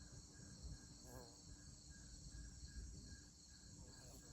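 Faint evening insect chorus: crickets chirping in an even pulse about three times a second over a steady high-pitched insect drone, with a low rumble underneath.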